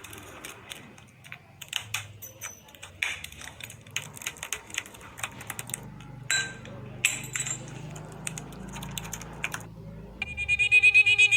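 Irregular clicks, taps and light scrapes of cracked iPhone 11 back glass being chipped and picked off the phone's frame. About ten seconds in, a loud, fast-pulsing buzz starts.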